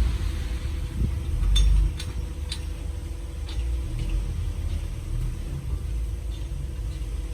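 Diesel engine of heavy earthmoving machinery running with a low rumble that swells briefly about a second in, then settles. A few sharp metallic clinks come between about one and a half and three and a half seconds in.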